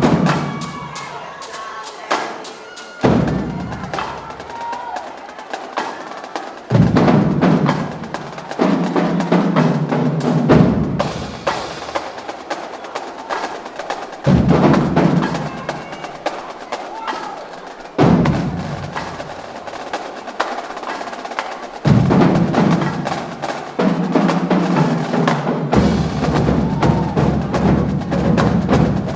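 Marching band drumline playing a cadence: rapid, crisp snare strokes and rim clicks, with deep bass drum hits opening each phrase every few seconds.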